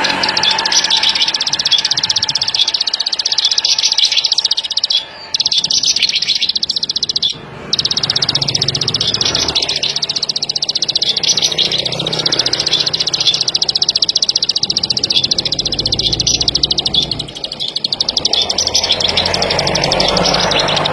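Ciblek padi, a small rice-field prinia, singing a fast, continuous run of high chirping notes, broken by two brief pauses about five and seven seconds in.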